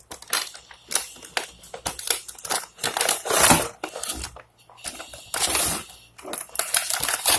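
Plastic packaging rustling and crackling, with irregular clicks and knocks, as a toy is unpacked and handled.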